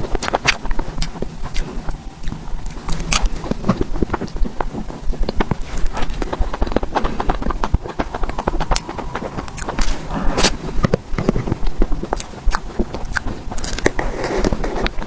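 Close-miked eating of creamy cake: chewing with a dense, irregular run of wet mouth clicks and smacks.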